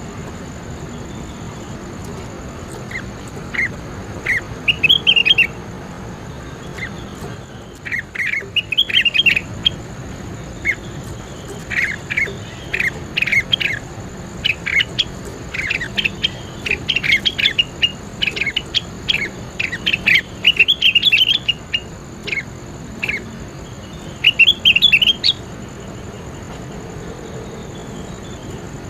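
A songbird singing in clusters of short, sharp chirps and rapid trills, with brief pauses between phrases. A faint steady high tone runs underneath.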